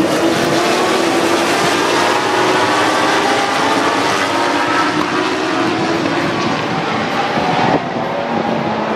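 A pack of MotoGP racing motorcycles' 1000 cc four-stroke engines revving hard together at the race start, many engine notes overlapping and shifting in pitch. The sound changes abruptly about eight seconds in.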